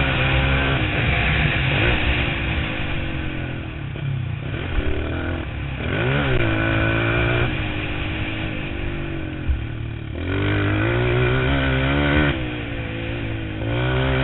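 Motocross bike engines revving, the engine note repeatedly climbing and dropping as the throttle is opened and closed.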